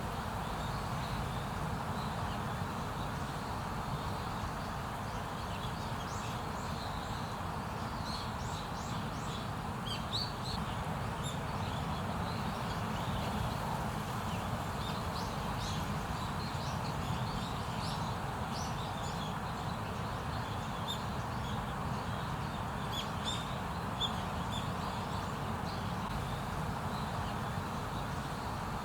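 Small birds chirping in short, scattered calls over a steady low background noise of outdoor woodland ambience.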